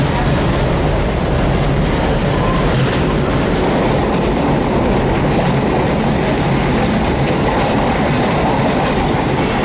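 A moving passenger train heard from inside the coach: the steady running noise of the car rolling along the track.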